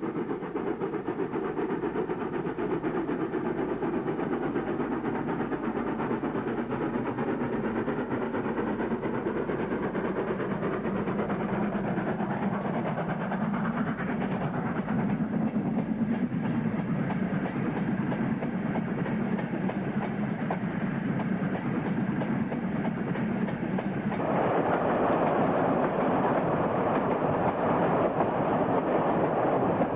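Diesel train running along the line, a steady rumble of the train on the rails that grows louder about 24 seconds in.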